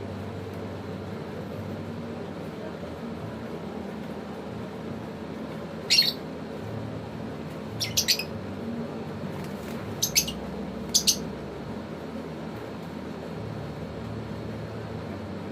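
African lovebirds giving short, shrill squawks: one about six seconds in, then quick pairs a little later, over a steady low background hum.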